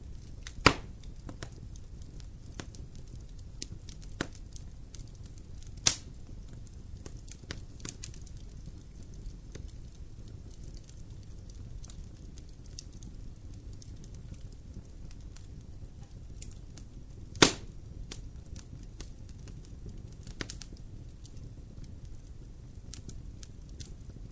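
Wood fire in a fireplace crackling: scattered small clicks over a steady low rumble of the flames, with three loud sharp pops, about a second in, about six seconds in, and near seventeen seconds.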